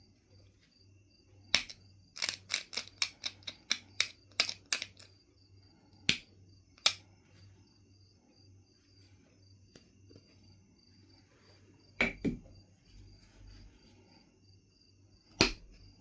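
Knife River Flint being knapped: sharp stone clicks as flakes are taken off. There is one click, then a quick run of about ten, then scattered single clicks, with a duller knock among them near the end.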